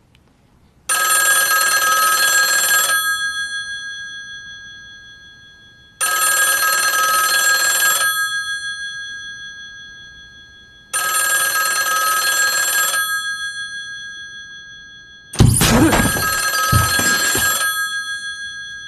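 Telephone ringing four times, about five seconds apart, each ring a steady bell-like tone that fades out. A loud, sudden low thud opens the fourth ring.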